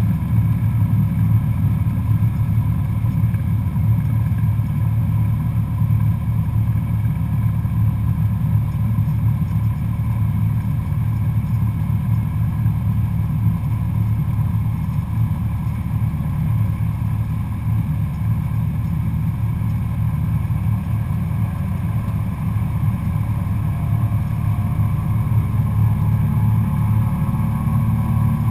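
Cessna 172SP Skyhawk's four-cylinder Lycoming engine and propeller running at a steady drone in flight. Near the end a higher tone rises slightly in pitch.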